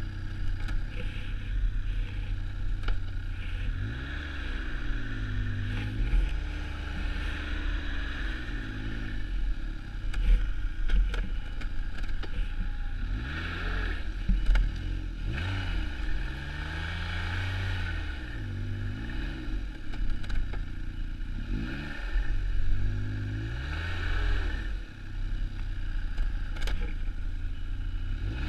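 Snowmobile engine running under way, its pitch rising and falling over and over as the throttle is opened and eased off.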